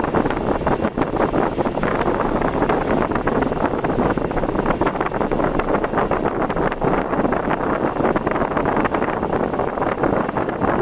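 Typhoon wind and rain buffeting a moving car: a loud, steady rush of noise with constant fine crackling throughout.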